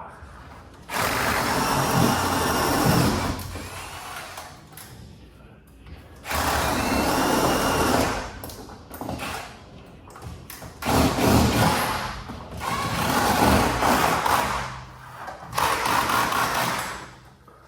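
A power tool running in five bursts of one to three seconds each, with short pauses between.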